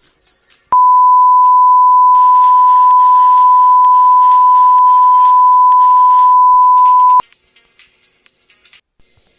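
A loud, steady pure beep at one pitch, lasting about six and a half seconds and cutting off sharply, of the kind used as a censor bleep. Faint clicking and background music lie under it.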